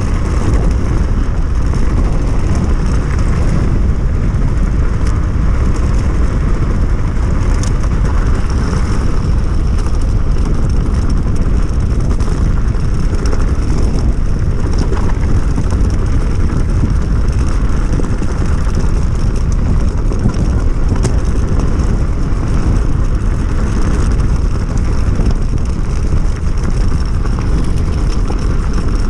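Steady wind rush and rolling noise from riding an electric enduro bike with a 72 V, 3000 W hub motor on a Fardriver ND72260 controller, with no engine sound. The rush is loud and even, heaviest in the low end.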